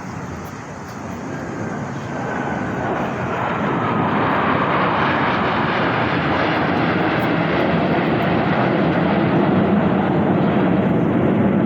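Display aircraft flying past in formation: engine noise that swells over the first few seconds, then holds as a loud, steady roar.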